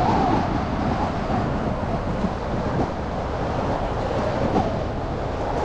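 Steady city traffic and road noise from a car driving through slushy streets, with the tail of an emergency siren's wail fading out in the first half second.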